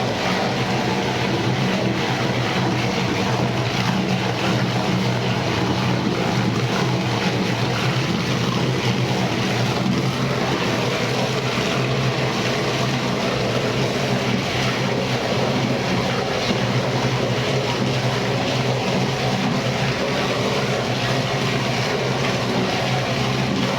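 Electric-motor-driven meat grinder for bakso (meatball) meat running steadily, a constant motor hum with a noisy mechanical whirr over it.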